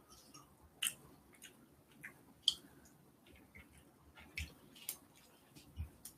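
Close-miked eating sounds: irregular sharp wet clicks and smacks of chewing, about one a second, with a couple of soft low thumps near the end.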